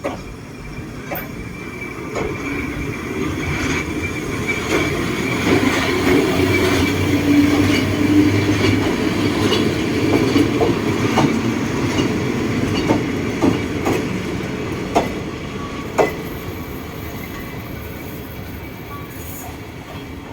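Freight train hauled by a Taiwan Railways E300-class electric locomotive pulling out and passing. The wagons rumble and clack over the rail joints with a thin wheel squeal and scattered sharp knocks. The sound builds to its loudest about eight seconds in, then slowly fades.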